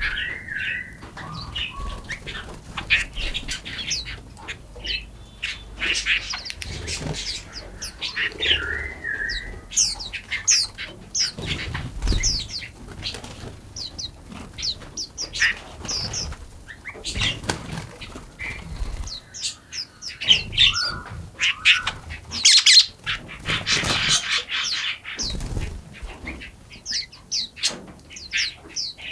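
Many small birds chirping and calling in quick, overlapping notes, mixed with frequent short rustling or fluttering sounds.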